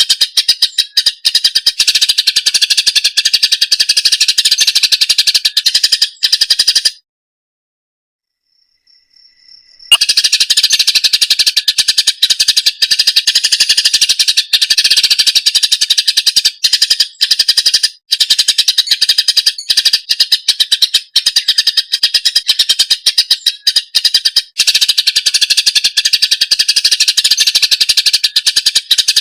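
Cucak ijo (green leafbird) singing a loud, fast, unbroken chatter of rapid notes. It stops dead for about three seconds around seven seconds in, then resumes.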